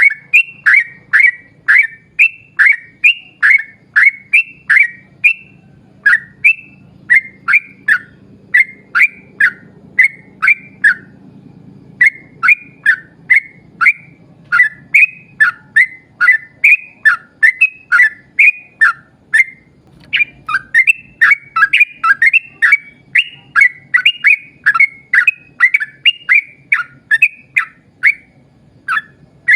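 Yellow-vented bulbul (trucuk) singing a long, fast series of short chirping notes, two to three a second, with brief breaks about 12 and 20 seconds in. A faint low hum lies underneath.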